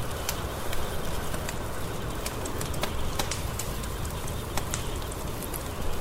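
Wood fire crackling in a fireplace: many short, sharp pops and snaps at irregular intervals over a steady low rumble of the burning logs.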